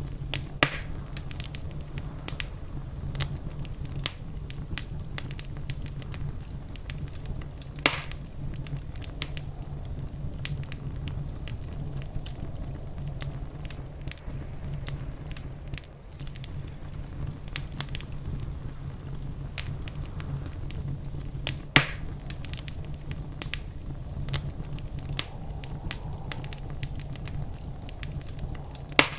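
Wood fire crackling in a fireplace: scattered small crackles all through, with a few louder pops (about a second in, around 8 s, around 22 s and at the very end) over a steady low rumble.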